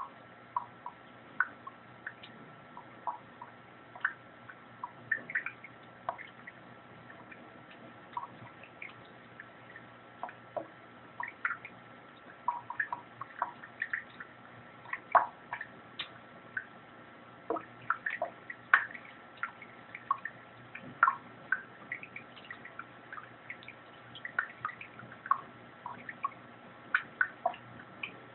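Water dripping and plinking into water in a sink: many small, irregular drops and splashes, a few of them louder, with a faint steady whine underneath.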